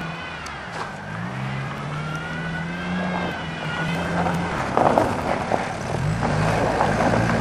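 1993 VW Jetta's four-cylinder turbo diesel engine revving hard under load, its pitch rising and dipping, with a high whine wavering above it for the first few seconds. About halfway through, a rough irregular rattle joins in and grows louder, which the owner puts down to the serpentine belt tensioner.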